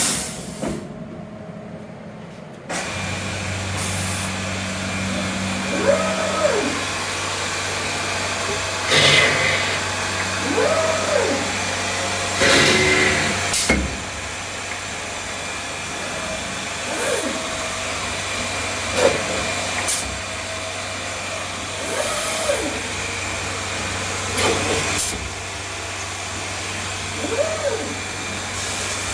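SCM Startech CNC woodworking machine running. A steady hum starts about three seconds in, overlaid by a series of short whines that rise and fall again, two louder bursts of hiss, and several sharp clicks, like motors spinning up and down between operations.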